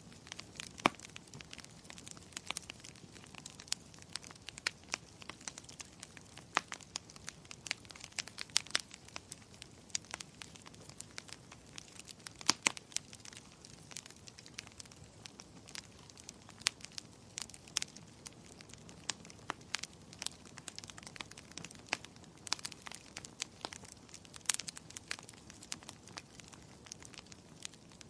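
Wood fire burning in a fireplace, crackling steadily with irregular sharp pops and snaps over a low hiss.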